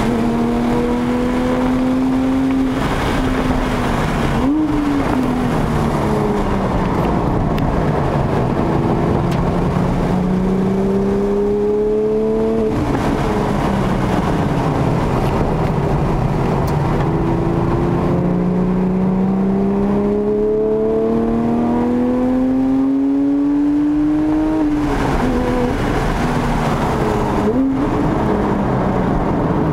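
Porsche 997 GT3's flat-six engine with a Sharkwerks exhaust bypass, heard from inside the cabin under hard acceleration: the engine note climbs in long rising pulls and falls sharply twice. Short, sharp rev blips come a few seconds in and twice near the end as the revs come down, over steady road and wind noise.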